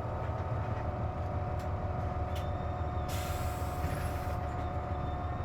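KC-JP250NTN city bus idling with its air conditioning on, heard from inside the cabin: a steady engine rumble under a steady whine, the abnormal noise this bus makes when the air conditioner is running. About three seconds in, a hiss of air lasts just over a second.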